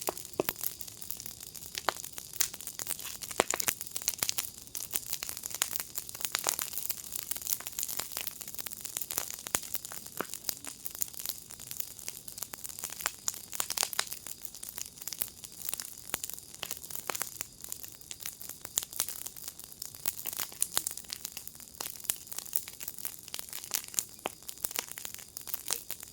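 Wood fire in a firepit crackling: dense, irregular pops and snaps over a steady hiss.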